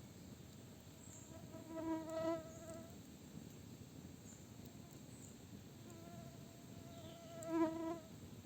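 A flying insect buzzing close past the microphone twice, each pass a wavering buzz that swells and fades over about a second, against a faint forest background.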